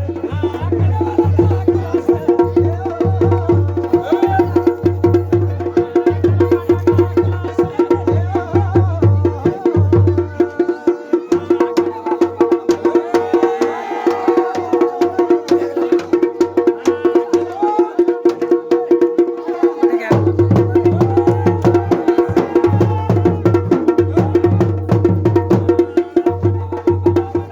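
Garhwali dhol and damau drums played together in a fast, dense rhythm. The deep bass beats stop about ten seconds in and come back about ten seconds later.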